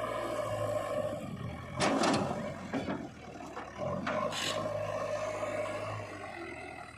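Heavy diesel engine running steadily while a backhoe loader works. Two loud, short noises cut across it, about two seconds in and again about four seconds in.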